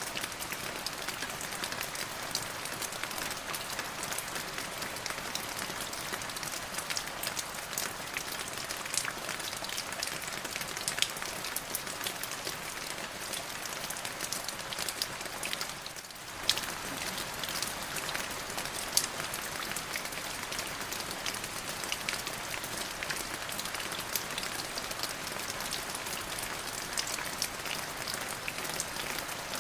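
Steady rain falling, an even hiss full of close, distinct drop hits. It dips briefly about halfway through, then comes back with a sharp drop hit.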